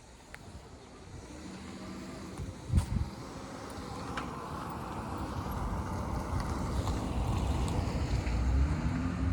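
A car approaching along a residential street, its engine hum and tyre noise growing steadily louder. There is a single sharp thump about three seconds in.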